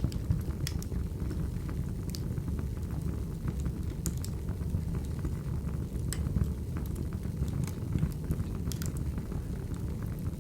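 Wood fire burning, a steady low rumble with scattered sharp crackles and pops, several a second.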